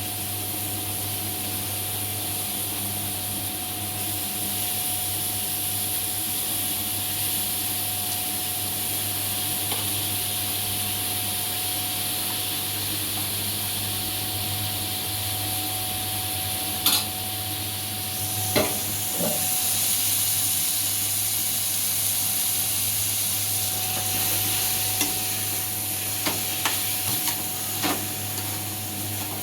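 Food sizzling and frying in a pan of hot oil with fried onion and tomato as it is stirred, most likely the raw chicken pieces just added. A few sharp knocks of the stirring utensil against the pan come from about halfway through, more of them near the end.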